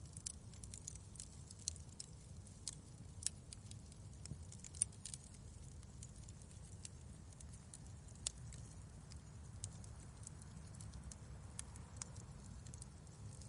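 Wood fire crackling in a fireplace: irregular sharp pops and snaps over a low steady rumble, busier in the first half.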